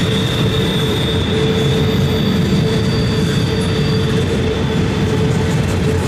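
Empty intermodal freight cars of a long CSX train rolling past, with a steady, high wheel squeal from the curve over the constant noise of wheels on rail.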